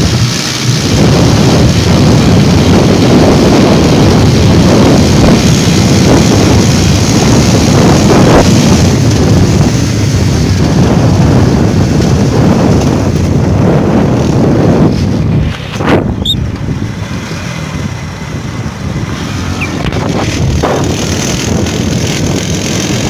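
Motorcycle ride at speed: wind buffeting the microphone over the running engine. About two-thirds of the way through it gets quieter, with a sharp knock.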